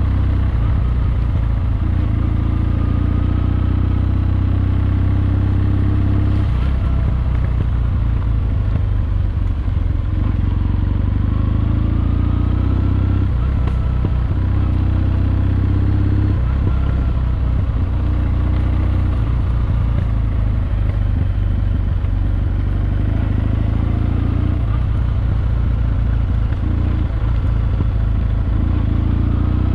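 Kawasaki W650's air-cooled parallel-twin engine running steadily under way, heard from on the bike, its note dipping briefly a few times.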